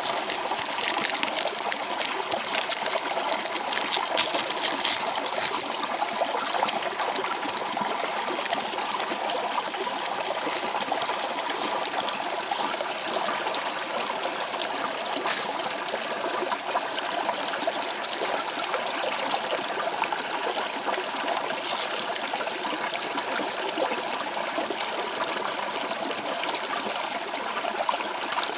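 Running water of a stream, a steady rushing that does not change, with a few short clicks over it in the first several seconds and twice later on.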